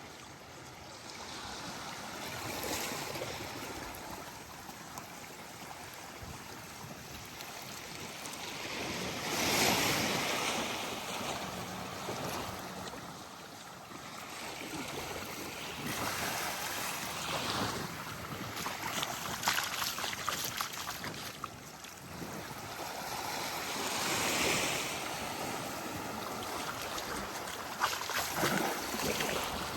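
Small waves breaking and washing up the sand, swelling and fading about every seven seconds, with a light breeze on the microphone.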